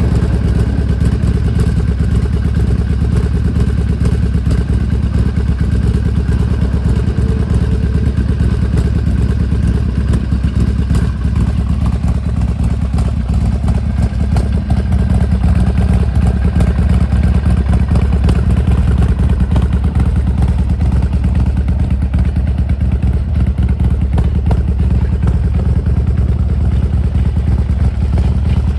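Harley-Davidson XL1200R Sportster's 1200 cc air-cooled V-twin engine running at a steady idle, with a light mechanical clatter.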